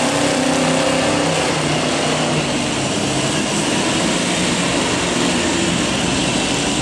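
Monster truck engines running, a loud steady mechanical drone.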